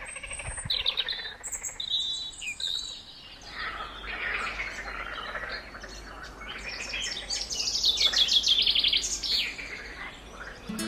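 Birds singing: a mix of chirps and quick trills, with a louder run of rapidly repeated high notes about seven seconds in.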